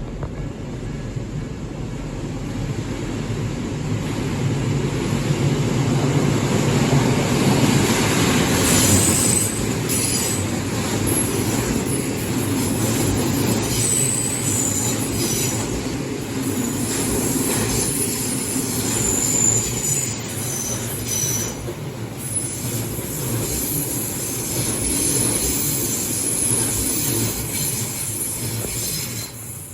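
Odakyu 3000-series and 1000-series electric trains running coupled past a level crossing. The rumble of wheels on rail grows over the first several seconds and stays loud, with short high-pitched wheel squeals through the middle, then falls away at the end.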